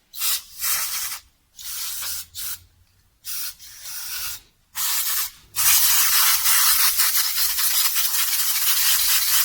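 Pressurised spray hissing in short bursts, then running continuously from about five and a half seconds in.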